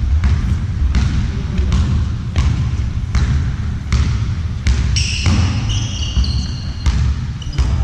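Ball game on a court: a ball bouncing and striking at irregular intervals over a heavy low rumble. From about five seconds in, shoes squeak on the floor.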